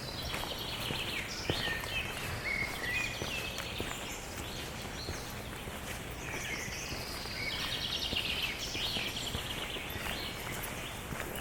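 A songbird singing: two bouts of quick trilled and sliding phrases, the first in the first few seconds and the second from about the middle to near the end, over a steady outdoor background noise.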